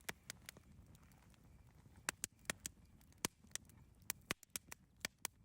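Wood campfire crackling: irregular sharp pops and snaps, about a dozen of them, over a soft low rumble of burning.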